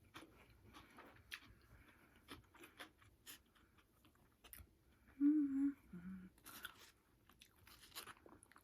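Close-up chewing and crunching of Chinese takeout food, with small mouth clicks throughout. About five seconds in comes a short hummed "mm-mm" from the eater, stepping down in pitch.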